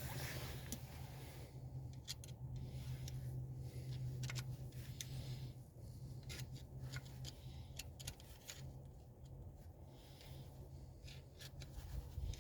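Scattered light metallic clicks and rubbing from drum brake parts being handled and fitted, over a steady low hum.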